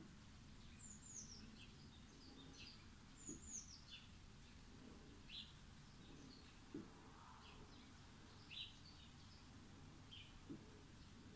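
Near silence with faint bird chirps: short high chirps and a few quick downward-sweeping calls every second or so, with a few soft, low thumps now and then.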